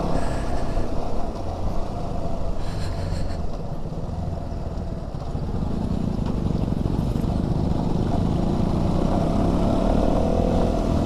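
KTM Duke 200's single-cylinder engine running steadily under a ride on the open highway, with wind noise over the microphone. Over the second half the engine grows louder and its note rises slightly.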